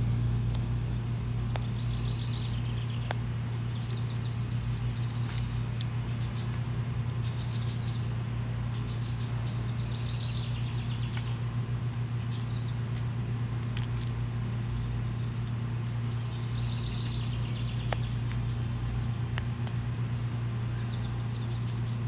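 Small birds chirping in short trills every few seconds over a steady low drone.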